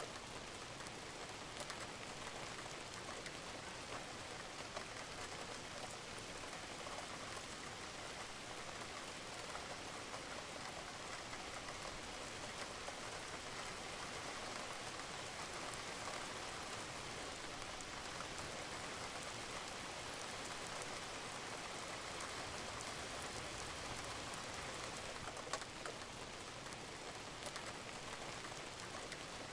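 Steady rain falling on a roof, a dense even patter with individual drops ticking through it and one or two sharper drips near the end.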